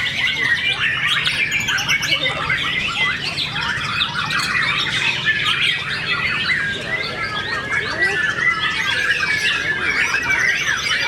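Many songbirds singing at once: a dense, continuous chorus of quick chirps, whistles and squawks overlapping without a break.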